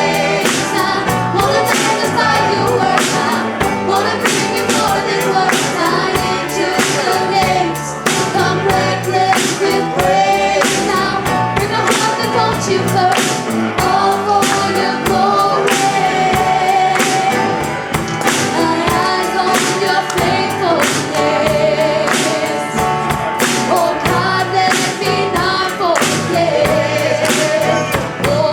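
Gospel worship music with singing over a steady beat of drums and instruments.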